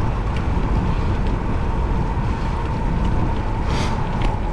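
Wind buffeting the microphone of a moving bicycle rider: a steady, heavy rumble with a faint steady whine underneath. A short hiss rises about four seconds in.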